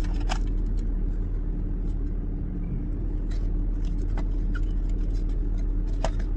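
Steady low drone of a car idling, heard from inside the cabin, with a few faint clicks and rustles of a cardboard takeout box being opened and handled.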